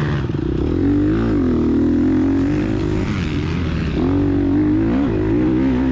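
2022 Gas Gas EX250F four-stroke single-cylinder dirt bike engine under hard riding, its revs rising and falling again and again as the rider works the throttle and gears.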